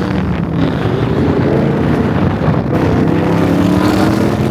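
Car engine running under load, its pitch climbing slowly as the car speeds up, with wind buffeting the microphone.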